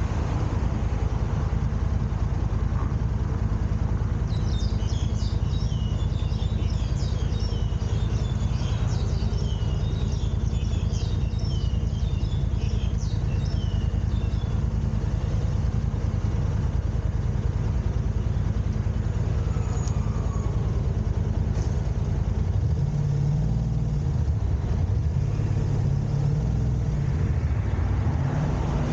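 Steady low rumble of a car driving, road and engine noise as picked up by a dashcam. Between about four and fourteen seconds in, a run of short, high chirps sounds over it.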